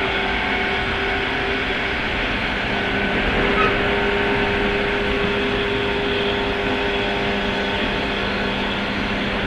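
Running sound inside a 103 series electric train's motor car with MT55 traction motors, travelling at a steady speed: an even rolling rumble with a steady low hum.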